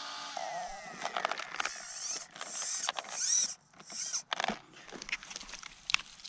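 Steering servo of an Arrma Outcast RC truck buzzing and whining in short strokes as the steering is worked back and forth, with creaking and clicking: a rock is jammed in the servo and steering linkage.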